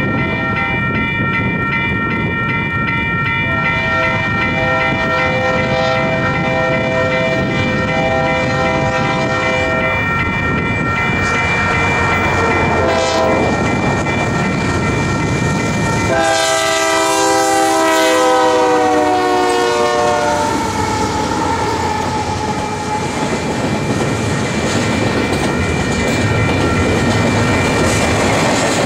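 Freight train horn on Union Pacific GE diesel locomotives sounding several blasts as the train approaches. About two-thirds of the way in comes a final long blast whose pitch drops as the locomotives pass close by, the Doppler shift. The diesels and then the double-stack container cars rumble and clatter past on the rails.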